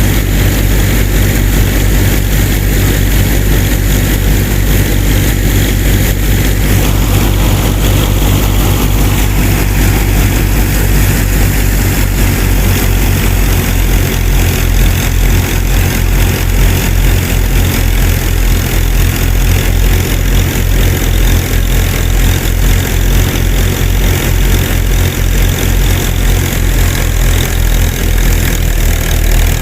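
A small engine running steadily with an even low chugging, the pulsing growing more pronounced about halfway through.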